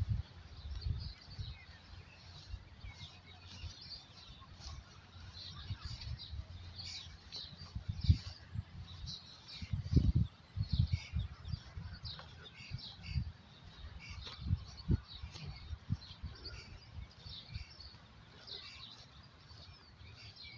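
Small birds chirping in many short, high calls throughout, with irregular low thumps that are loudest about halfway through.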